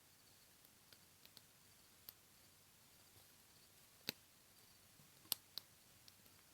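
A small campfire crackling quietly, with a few scattered sharp pops of burning wood.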